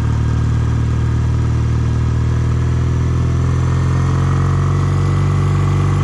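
Kawasaki W800's air-cooled parallel-twin engine idling steadily, just after being started.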